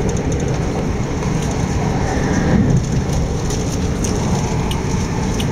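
Steady rumble and rush of an Electrostar electric multiple unit running at speed, heard from inside the carriage, with a brief swell about halfway through and scattered faint clicks.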